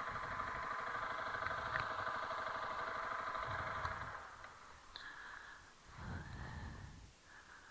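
Honda CRF300L Rally's single-cylinder four-stroke engine running at low speed, then cutting out about four seconds in, leaving only faint low sounds.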